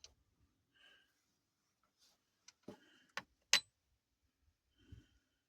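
A few light clicks and knocks from parts being handled, the loudest a sharp metallic clink about three and a half seconds in.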